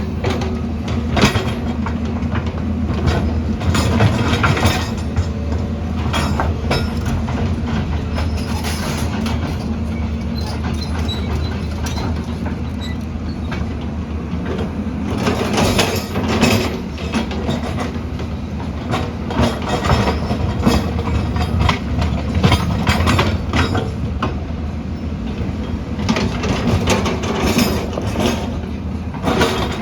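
Heavy diesel construction machine running steadily, with frequent metallic clanks and rattles over the engine hum. The clanking is thickest about fifteen seconds in and again near the end.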